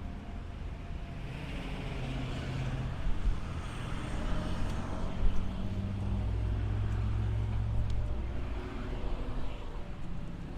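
A motor vehicle's engine running as it drives past, a steady low hum with tyre noise that swells and fades over a few seconds.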